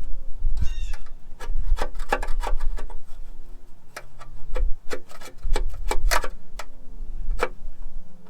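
A hand scraper scraping and knocking against engine parts: a string of irregular sharp clicks and scrapes, about two to four a second, under a low rumble of wind on the microphone.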